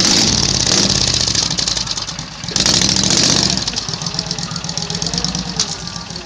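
Small garden tractor engine running under throttle, easing off briefly about two seconds in, picking up again, then dropping away and growing fainter.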